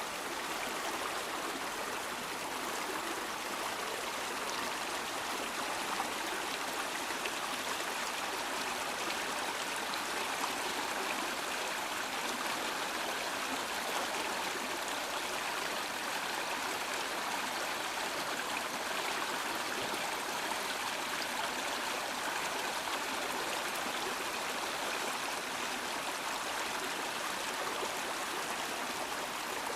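A fast-flowing stream rushing and splashing over rocks: a steady, even wash of water noise with no letup.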